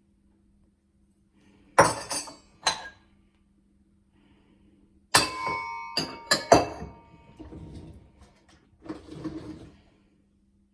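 Dishes clinking against each other as they are handled in a dishwasher rack: sharp clinks about two seconds in, a busier run of clinks with a brief ringing tone a few seconds later, and a softer rattle near the end.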